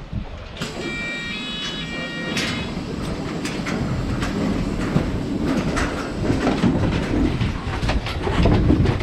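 Ski-lift car at the station: a chime of alternating tones sounds about a second in, then a rumble with clattering and knocks builds as the car gets under way.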